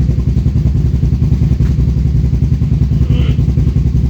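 An engine idling steadily with an even, rapid low pulse. There is a brief higher squeak about three seconds in.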